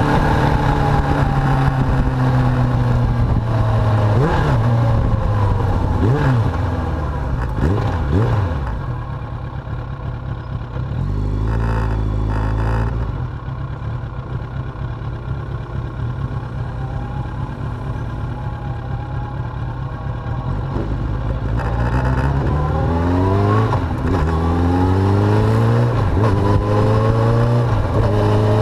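Suzuki GSX750F's inline-four engine running under way, slowing at first, then a steadier stretch, and near the end pulling up through the gears in repeated rising sweeps. Other motorcycles rev and pass quickly a few seconds in.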